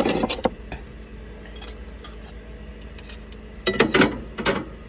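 A metal utensil clinking and scraping against a cooking pot in two short bursts, one at the start and another about four seconds in, with a few light ticks between.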